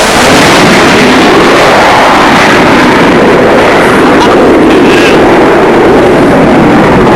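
Military fast jet's engine noise during a low display pass: a loud, steady rush that holds the recording near full scale for the whole stretch.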